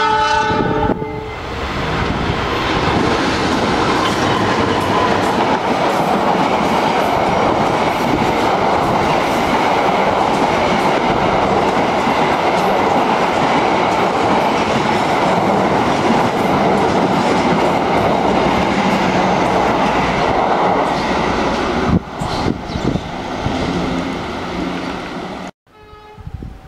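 CC 206 diesel-electric locomotive's horn sounding and stopping about a second in. Then the locomotive and its passenger carriages run close past, wheels clacking over the rail joints, for about twenty seconds before fading. The sound cuts off abruptly near the end.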